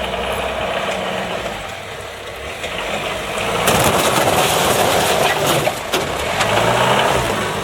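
MWM diesel engine running steadily, then working harder and louder from about halfway through before easing back near the end.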